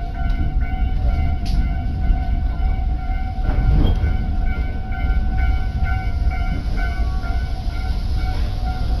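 Tobu Urban Park Line commuter train running, heard from inside the carriage: a low rumble of the wheels on the track with a steady high whine over it.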